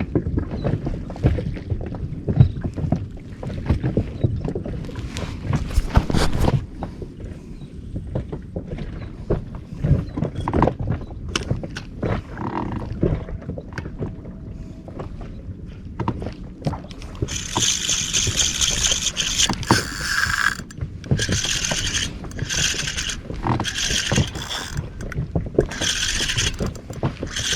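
Water slapping and knocking against an inflatable boat's hull. Past the middle, a fishing reel is cranked in short whirring bursts, about a second each with brief pauses, as the jig is worked or a line is wound in.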